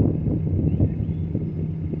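2002 Ford Explorer's 4.0 L V6 engine idling steadily after a cold start, a constant low hum with uneven pulses in the exhaust.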